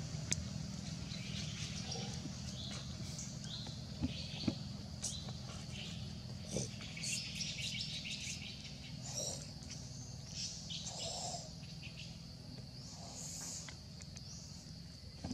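Birds chirping in scattered short high calls over a steady low rumble, with a few sharp clicks, one just after the start and two about four seconds in.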